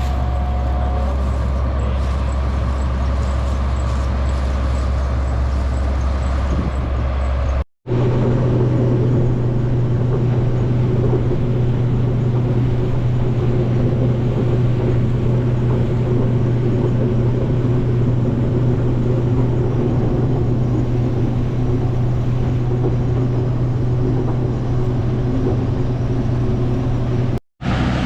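Heavy farm machinery running steadily with a low, even engine drone. It breaks off for an instant about eight seconds in and again near the end, and after the first break a steadier, slightly higher hum takes over.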